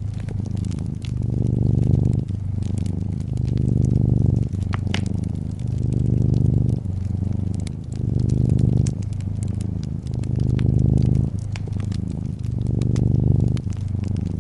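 Domestic cat purring close up, a low rumble that swells and eases with each breath every second or two, with a fireplace's scattered sharp crackles and pops over it.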